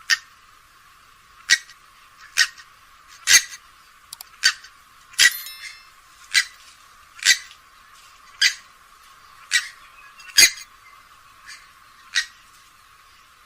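Grey-headed swamphen giving a series of short, sharp calls, about one a second, a dozen in all. The calls sound thin, with no low end.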